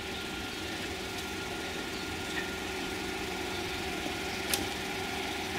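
BMW GINA concept car idling: a steady mechanical hum, with one sharp click about four and a half seconds in.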